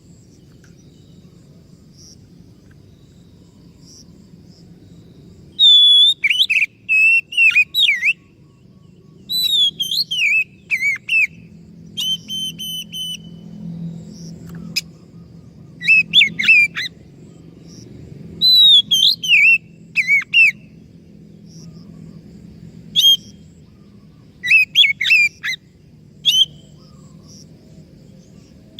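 Oriental magpie-robin (kacer) singing loud whistled phrases with falling and rising slurs. The song starts about six seconds in and comes in bursts of a few seconds with short pauses, over a faint low hum.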